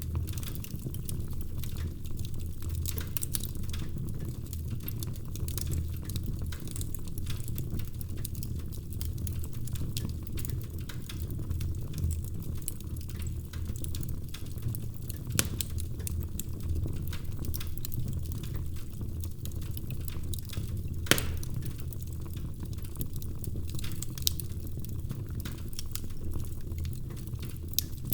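Wood fire burning in a fireplace: a steady low rumble of flames with constant small crackles and a few louder pops, the sharpest about 21 seconds in.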